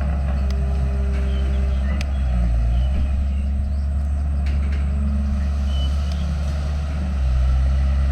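Heavy diesel engine of an earthmoving machine running under load. The engine note drops briefly about two and a half seconds in and swells louder near the end, with a few sharp metallic clanks.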